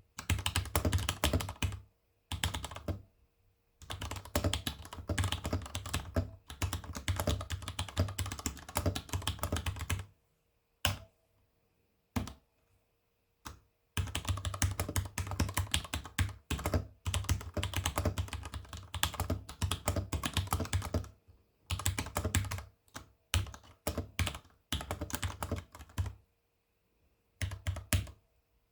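Ducky x Varmilo Miya Pro Panda mechanical keyboard with lubed tactile brown switches being typed on: fast runs of keystrokes broken by short pauses, with a few single key presses around the middle.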